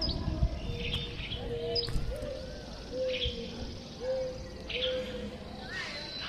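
Birds calling: a run of about five short, low, level notes roughly a second apart, with scattered higher chirps, over a steady low background rumble.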